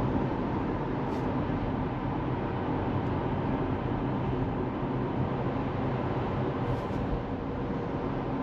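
Steady tyre and road noise of a moving Tesla Model 3, heard from inside the car. The car is electric, so there is no engine note.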